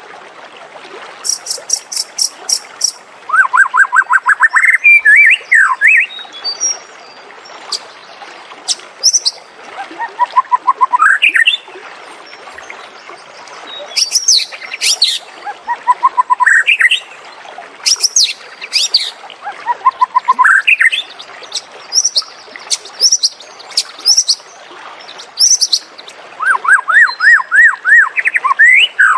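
White-rumped shama singing in phrases every second or two: runs of quick repeated notes, many climbing in pitch, alternating with very high, rapid trills.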